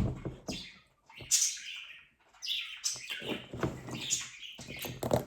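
Small plastic toys and packaging being handled, with short, irregular spells of rustling and clicking.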